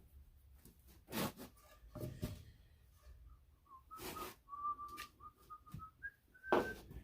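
A person whistling a short tune with changing notes while working, broken by several sharp wooden knocks and clatter as pieces are handled, the loudest knocks about a second in and near the end.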